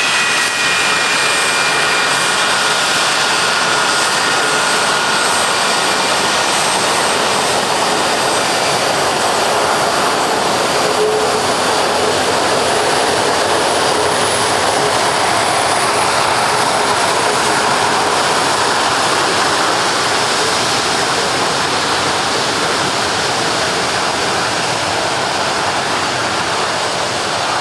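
Jet noise from a Boeing E-3F Sentry's four CFM56 turbofans as it flies by. A high whine sits on the rush and fades out over the first several seconds, leaving a steady, loud roar of jet noise.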